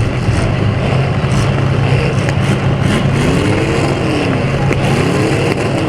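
Demolition derby cars' engines running loud together, with engines revving up and falling back a couple of times near the middle.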